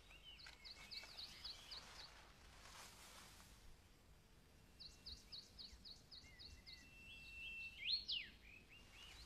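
Faint birdsong: a small bird chirping in quick runs of short, falling high notes, about five a second, with a held whistle and a louder rising-and-falling call about eight seconds in.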